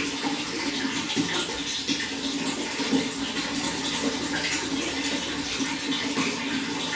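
Running water pouring and splashing steadily, a continuous rushing with a fuller low gurgle.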